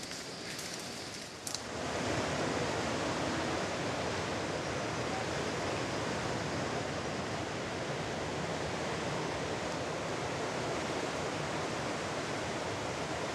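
Steady rushing noise of surf washing on the rocky shore, which rises sharply about two seconds in and then holds even, with a couple of faint clicks just before.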